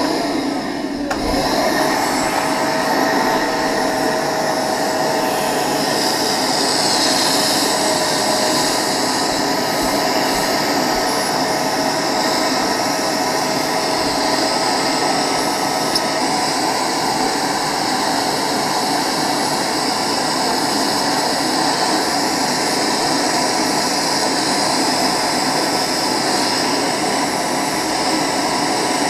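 Eureka Powermite vacuum cleaner switched on, its motor spinning up within about a second and then running steadily as it draws air through a party straw taped to its hose. A faint steady tone in the hum dies away about halfway through.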